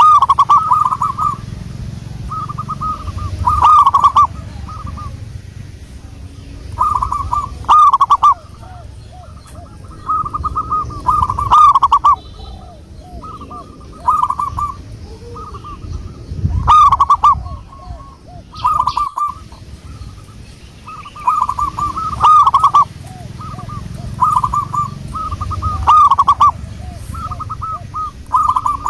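Zebra doves (perkutut) cooing: short phrases of quick, rolling coo notes at much the same pitch, repeating every second or two, over a low rumble.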